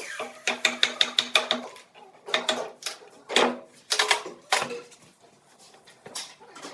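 Hard objects clattering and knocking: a quick run of light taps, about eight a second, then scattered single knocks.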